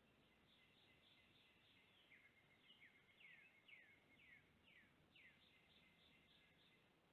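Faint songbirds calling: a run of about seven quick downslurred whistled notes in the middle, with rows of short high chips before and after.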